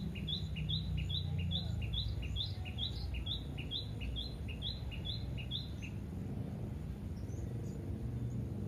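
A bird calling a fast series of short, identical high notes, about three a second, which stops about six seconds in. A low steady rumble sits underneath.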